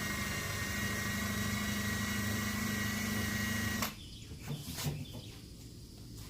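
Drill spinning a rubber eraser wheel against a painted truck door, rubbing off old double-sided 3M molding tape: a steady whine with a low hum that cuts off about four seconds in, followed by a few light knocks.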